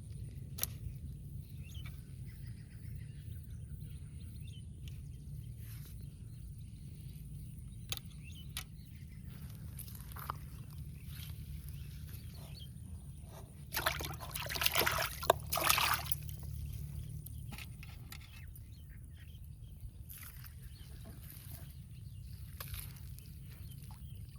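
Canal water splashing and sloshing for about two seconds midway, with a few sharp splashes, over a steady low rumble and scattered faint clicks.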